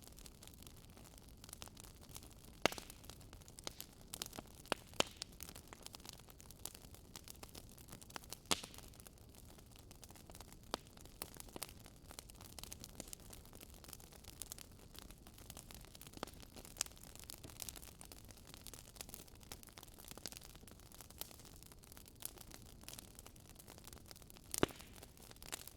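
Wood fire of burning logs crackling, with frequent small irregular snaps and a few louder pops over a soft steady hiss.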